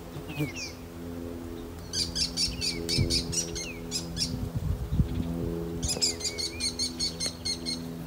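A songbird singing fast trills of high chirps, about seven notes a second, in two bouts about two and six seconds in. A steady low hum runs underneath.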